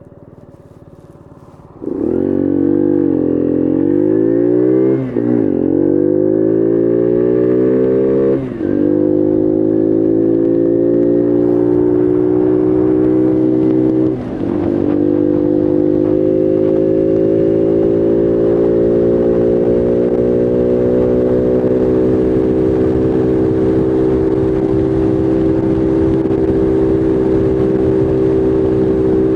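Bullit Heritage 125cc monkey bike's small single-cylinder engine pulling away and accelerating hard, its pitch rising and dropping at three quick gear changes through its four gears, then running steady with the note slowly climbing.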